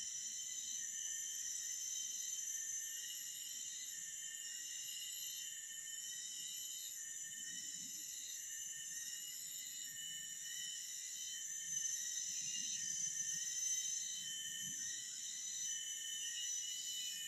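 Steady forest insect chorus: many high, shrill, continuous tones layered together, with one part pulsing on and off about every second and a half.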